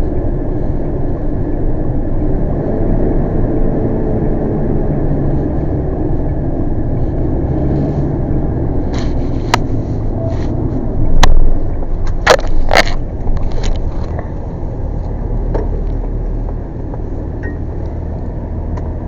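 Motor vehicle running, a steady low rumble, with a few sharp clicks and knocks about halfway through.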